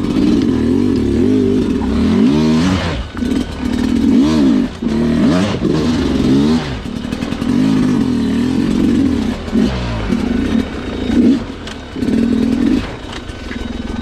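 Sherco two-stroke dirt bike engine revved up and dropped back over and over in short throttle bursts, working through a slow, technical trail section.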